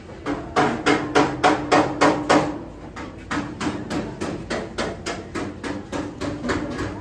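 Hammer beating car body sheet metal in quick, even blows, about three a second, with the metal ringing. The first several blows are the loudest, then lighter blows follow.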